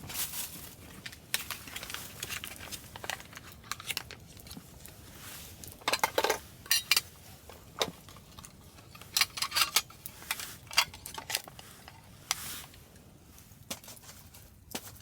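Irregular clinks and clatters of camp cookware and utensils being handled, with short clusters of knocks about halfway through and again a little later.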